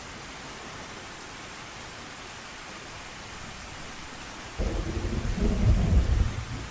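Steady rain, then about two-thirds of the way through a sudden loud, deep rumble of thunder that rolls on in uneven swells.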